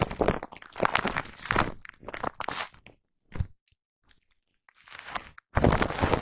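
Foam brush rubbed and scrubbed against a microphone up close, giving a dense, crunchy scratching. It stops with a single soft thump about three seconds in, goes quiet for a moment, then starts again and is loud near the end.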